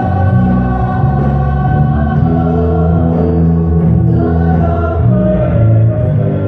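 Gospel worship song: a choir singing a slow chorus over instrumental backing, with long held notes.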